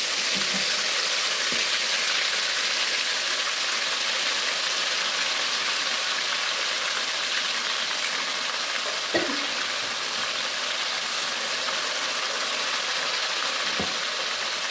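Boiled beef pieces sizzling as they shallow-fry in a little hot oil in a karahi, a steady hiss throughout. A few knocks of the tongs against the pan, the loudest about nine seconds in.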